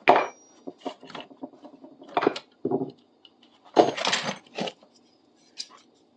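Metal hand tools being taken out of a bucket and set down on a workbench: a series of irregular clunks and clinks.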